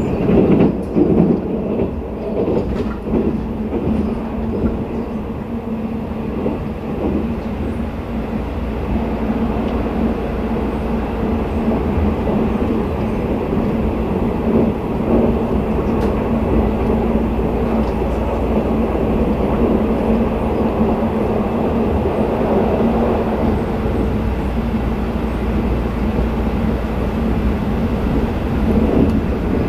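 Sleeper express train running at speed, heard from inside a passenger car: a continuous rumble of wheels on rail with a steady low hum, and louder clattering in the first few seconds.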